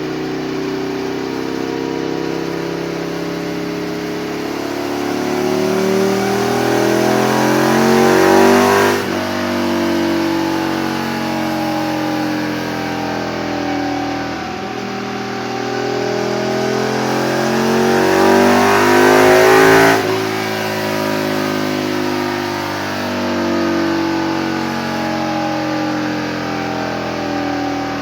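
Aprilia RSV 1000 R Tuono's 998 cc V-twin with a Leovince exhaust, pulling twice at full throttle on a dyno. Each time the pitch rises steadily to a peak, the throttle is cut suddenly, and the engine winds down with falling pitch.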